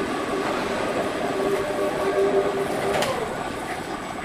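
Sawmill saw running with a steady whine over a dense mechanical din; about three seconds in there is a sharp click and the whine drops away and falls in pitch.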